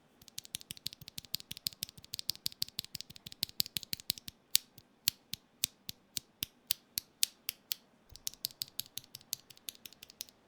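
Rapid, irregular series of sharp plastic clicks and clacks from a Gok 7V mechanical keyboard being worked by hand, several a second, with a short lull near the end.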